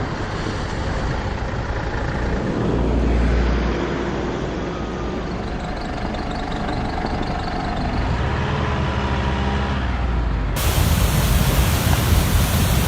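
Motor vehicle running with steady road rumble and faint engine tones. About ten seconds in, it is cut off abruptly by a loud, steady hiss.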